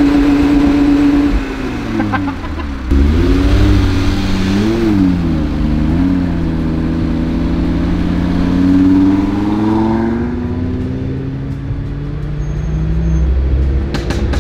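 Audi RSQ3's turbocharged five-cylinder engine running as the car drives, its pitch rising and falling with the revs. The revs drop sharply about two seconds in, pick up again, then hold a long steady pull before easing off near the end.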